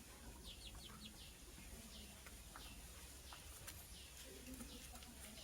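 Faint, repeated short chirps from a lovebird, each note sliding down in pitch, about two a second.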